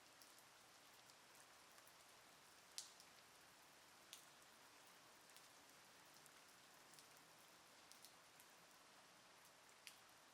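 Faint, steady rain falling, with single drops landing sharply now and then; the loudest drip comes about three seconds in, others near the four-second mark and near the end.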